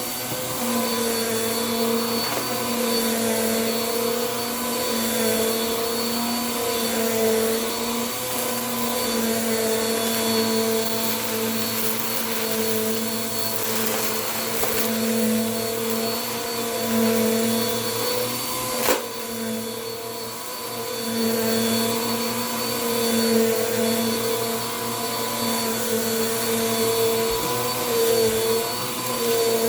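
Bissell PowerForce Compact upright vacuum running steadily, its motor hum wavering slightly in pitch as the load changes while it picks up debris. A single sharp click about two-thirds of the way through.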